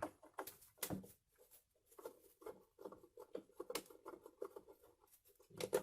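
Screwdriver backing a screw out of a Craftsman belt sander's housing: a quick run of small clicks and scrapes.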